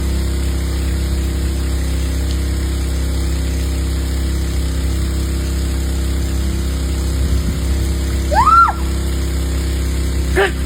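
Steady hum of a motor-driven water pump with water spraying, typical of a rain machine on a film set. A short rising-then-falling call is heard about eight and a half seconds in.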